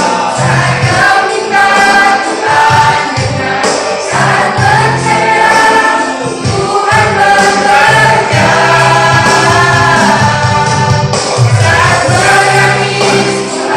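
Church youth choir singing a Christian song together, with a steady low accompaniment sustaining under the voices.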